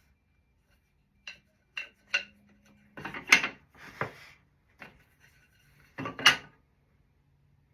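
A string of short, sharp wooden knocks and clatters, like boards and tools being handled and set down on a workbench. Three light taps come about a second in, louder clatters follow in the middle, and the loudest knock comes near the end.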